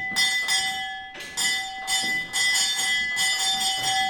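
A bell ringing in quick repeated strikes, several a second, with one clear ringing note, breaking off briefly about a second in and then ringing on.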